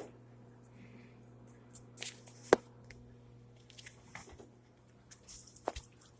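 Goat biting and chewing a tortilla: intermittent crackly crunching, with one sharp click about two and a half seconds in, over a steady low hum.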